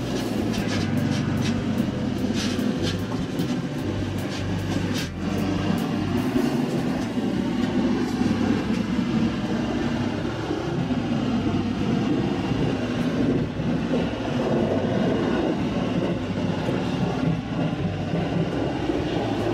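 Electric local train heard from inside its front cab, pulling away from a station and running on along the track: steady motor and wheel-on-rail noise, with a run of sharp clicks over the first few seconds.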